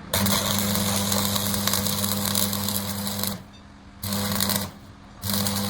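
Electric metalworking equipment, such as a welder or grinder, working on truck leaf-spring steel in three bursts: one long of about three seconds, then two short ones. Each burst has a steady low hum under a harsh crackling hiss.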